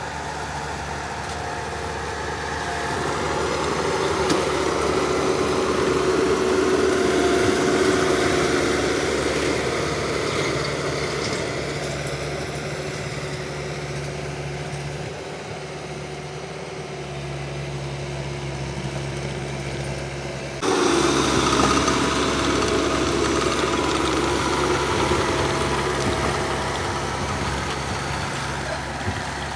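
Mini skid steer engine running steadily while the machine works. Its loudness swells and eases, with a sudden jump to louder about two-thirds of the way through.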